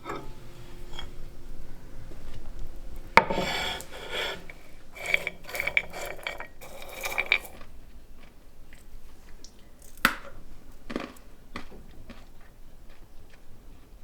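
Nuts clattering against a hard dish. A sharp knock about three seconds in starts several seconds of rattling with a ringing tone, and a few single clicks follow later.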